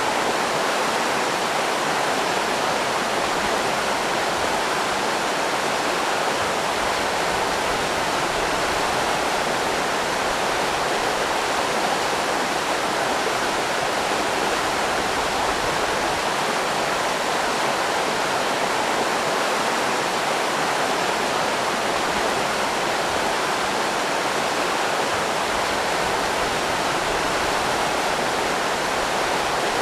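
River rapids running steadily: a constant, even rush of water with no breaks or changes.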